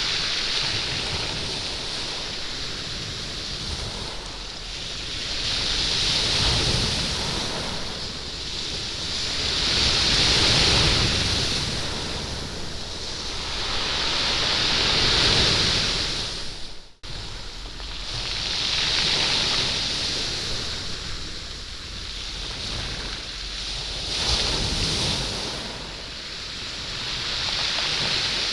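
Waves washing up a stony beach, with the stones rolling and rattling in the surf. Each wave swells and ebbs over four to five seconds. There is a brief break in the sound about two-thirds of the way through.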